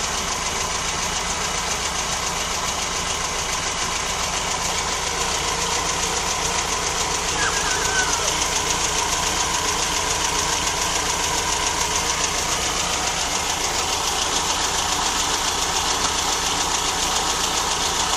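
1965 VW Notchback's 1600 air-cooled flat-four engine running steadily, a little louder after about six seconds.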